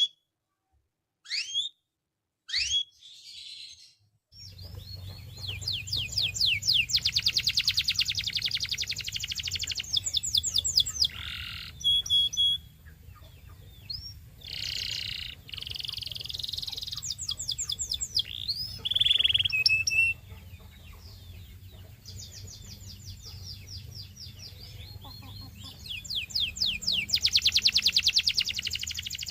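Canary singing: a few separate rising chirps, then from about four seconds in long, fast trills of rapidly repeated high notes broken by single whistled notes and chirps. A steady low hum runs underneath the song.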